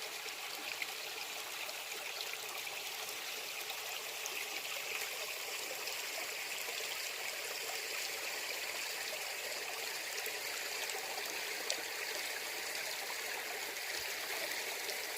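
Stream flowing steadily: a continuous murmur of running water.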